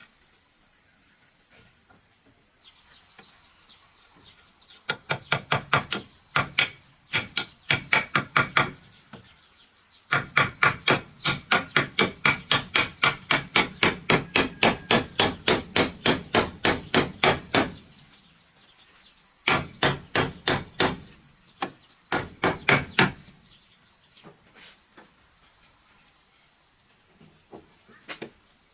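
Hammer striking wood in quick, even blows, about three a second, in three runs with short pauses between. A steady high insect drone sounds underneath.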